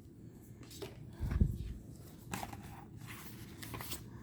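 Faint ticks and rustles of tarot cards being handled, with one low, dull thump on the table about a second in.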